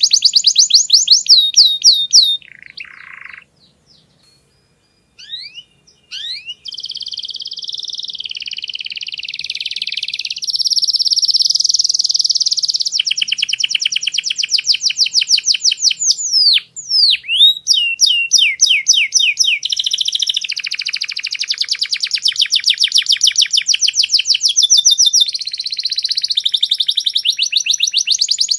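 Domestic canary singing: fast trills of rapidly repeated notes and rolling phrases. A break of a few seconds comes near the start, broken by one short buzzy note, then the song runs on without a pause.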